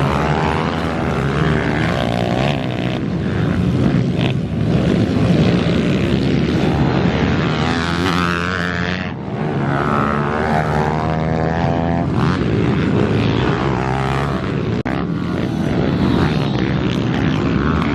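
Several pit bike engines revving hard during a race, their pitches rising and falling with throttle and gear changes.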